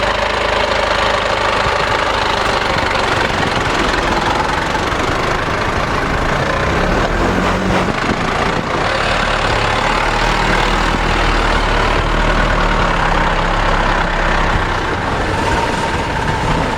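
4x4 vehicle on Arctic Trucks AT405 radial tyres driving slowly, its engine running steadily at low revs under a constant rush of tyre and road noise.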